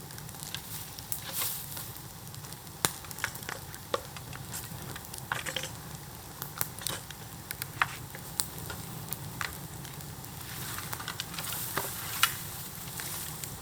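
Bamboo bonfire burning with a sizzling hiss and irregular crackles and sharp pops; the loudest pops come about three, eight and twelve seconds in.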